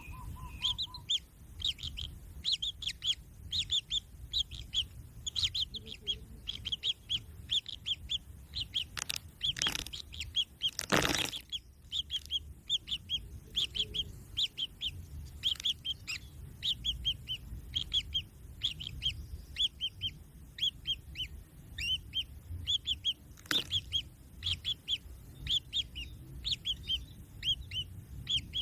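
Kingfisher chicks calling: short, high chirps repeated about three times a second, on and on. A loud knock or rustle breaks in about eleven seconds in, and a shorter one near the end.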